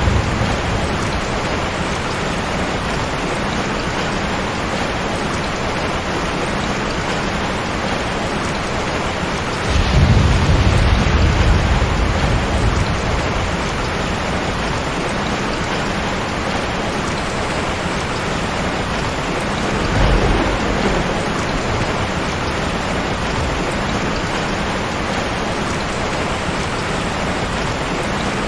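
Heavy rain pouring steadily, with two low thunder rumbles rolling in: a longer one about ten seconds in and a shorter one around twenty seconds in.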